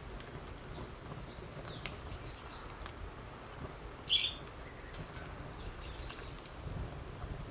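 Birds chirping outdoors, with scattered small sharp snaps and clicks over a low steady rumble, and one short, louder high-pitched call about four seconds in.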